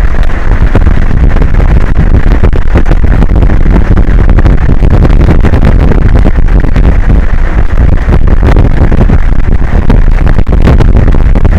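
Strong wind buffeting an exposed microphone: a constant, very loud rumble crowded with rapid crackling pops.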